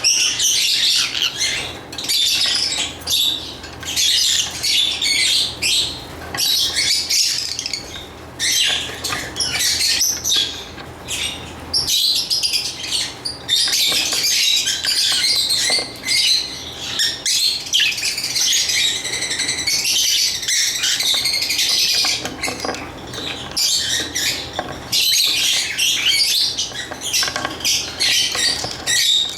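Lovebirds chirping and squawking: a dense, almost unbroken run of shrill calls with only brief pauses.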